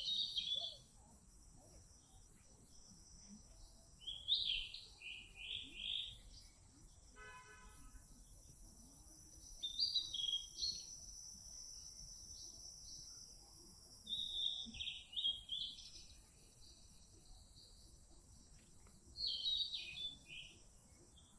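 A small songbird singing short, rapid, high chirping phrases, five bouts about every five seconds, over a steady high hiss of outdoor background noise.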